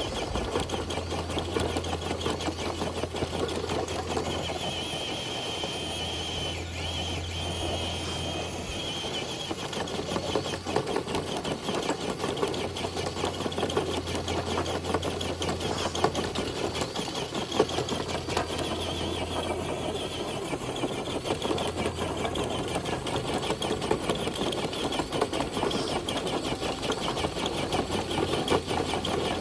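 Radio-controlled Traxxas TRX4 crawler's electric motor and geared transmission whining under heavy load as it drags a weighted dead sled, a continuous whirring with a fine rattle. A steady low hum fades out about two-thirds of the way through.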